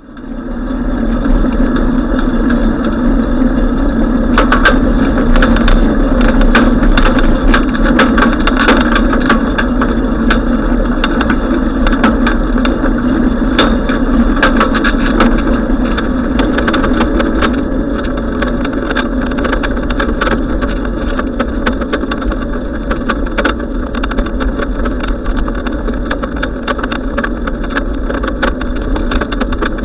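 Steady rushing wind and road noise from riding a bicycle, scattered with many sharp clicks and rattles.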